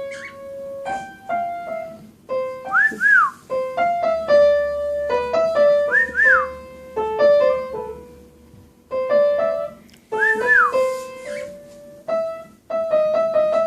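Piano music playing throughout, with a male cockatiel whistling over it three times, each a short whistle that rises and falls. He is whistling to his own reflection as if to a mate.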